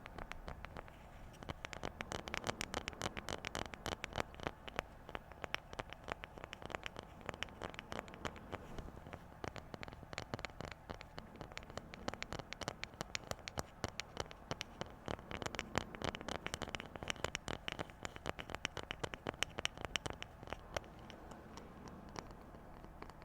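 Fast, dense finger tapping, many light taps a second, thinning out near the end.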